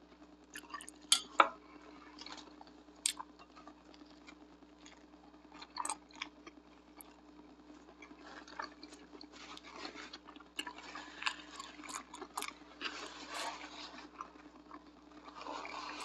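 A person chewing a mouthful of pizza burrito, with wet mouth sounds that grow busier in the second half. A couple of sharp clicks come about a second in.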